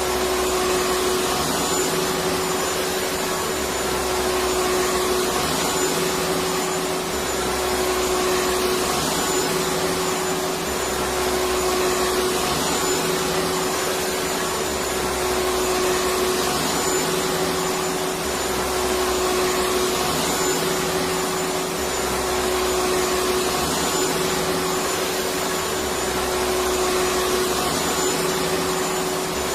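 Electric vacuum cleaner running steadily: a continuous rushing whoosh with a steady hum and a faint high whistle, its low end swelling and easing every couple of seconds.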